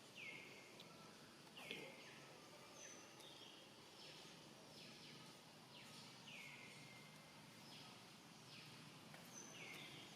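Faint high-pitched animal calls over a steady background hiss: about four calls that each slide down in pitch and level off, with short higher chirps between them.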